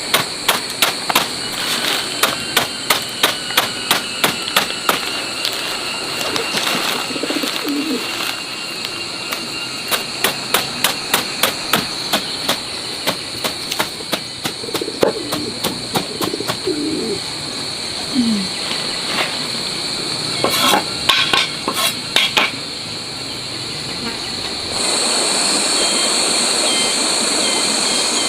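Runs of rapid, even knocks, about three a second, stopping and starting again, over a steady high tone.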